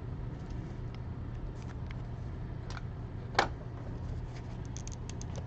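Faint handling noise of trading-card packs and cards: light scattered clicks over a steady low hum, with one sharper click about three and a half seconds in.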